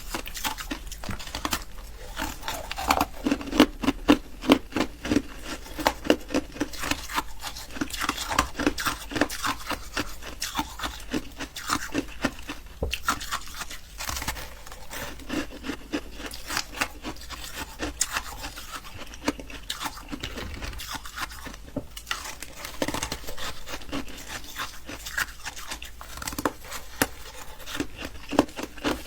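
Close-miked crunching and chewing of ice, a steady run of sharp cracks and crackles in quick succession.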